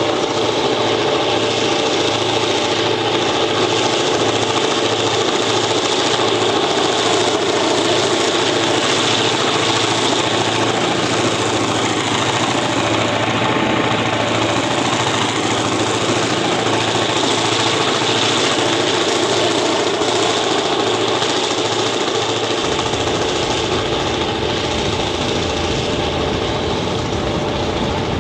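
EMD two-stroke diesel locomotive engine working hard under load, a loud steady drone with a regular low throb. About 22 seconds in, a deeper rumble joins and the throb fades.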